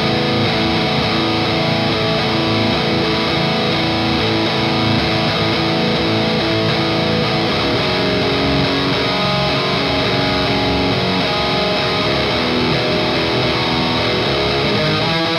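Electric guitar played through a Noise Pollution Skull Driver V2 overdrive pedal into an EVH Iconic tube amp: overdriven riffs and ringing chords, with a quick run of notes near the end.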